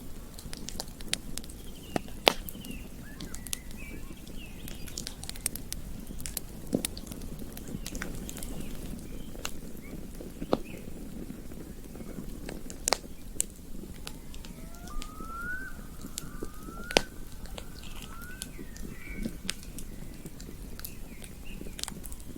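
Campfire burning, crackling with irregular sharp pops over a steady low rush of the flames. Faint bird chirps come through now and then, with a quick run of four rising chirps midway.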